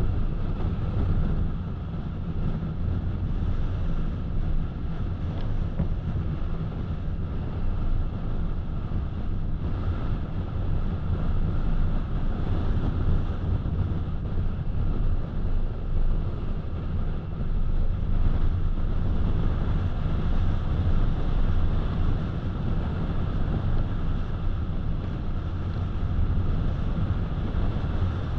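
Steady low road rumble of a car driving along, tyre and wind noise without a break.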